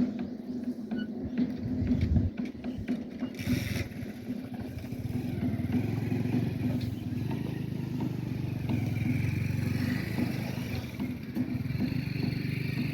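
Old stationary diesel engine running steadily, with mechanical clicks and knocks in the first few seconds and a deeper running note joining about five seconds in.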